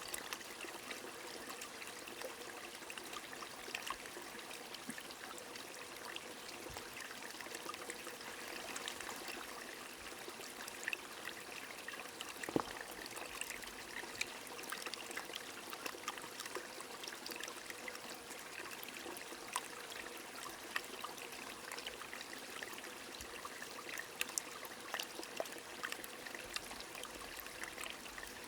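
A small stream trickling and splashing steadily while rain falls, with many small drip-like ticks through the steady water hiss.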